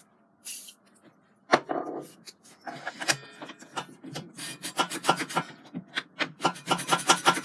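A circular saw blade's tooth rubbed back and forth against a diamond file in repeated scraping strokes, quickening to about four or five strokes a second in the second half. A sharp knock comes about a second and a half in, before the strokes begin.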